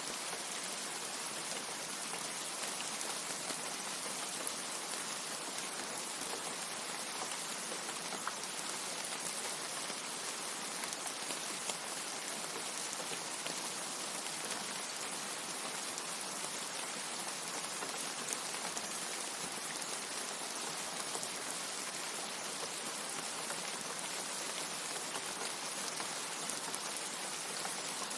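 Steady heavy rain falling, a dense even hiss with many small drop patters and no thunder.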